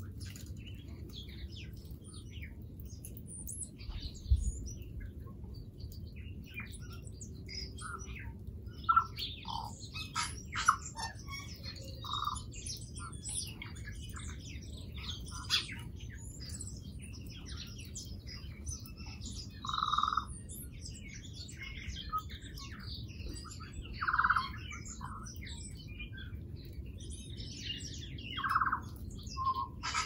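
Wild birds chirping and twittering, with many short high calls throughout. A few louder, longer, lower notes come about twelve, twenty, twenty-four and twenty-eight seconds in, over a steady low background rumble.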